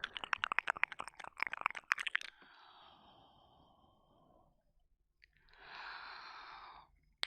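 Wet mouth sounds from ear licking on a binaural microphone: a rapid run of wet tongue and lip clicks for about two seconds, then a fading breath. A long, soft exhale comes near the end.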